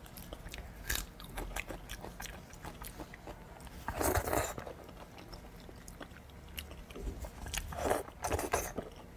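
Close-miked eating sounds: a person biting and chewing braised meat with wet mouth clicks and smacks. There are two louder bites, about four seconds in and again near the end.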